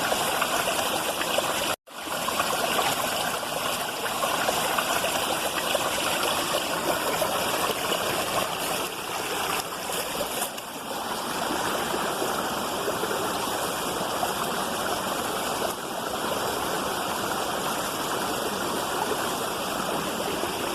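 Rushing water of a waterfall and its stream, a steady wash of noise, cut off by a brief silent gap about two seconds in.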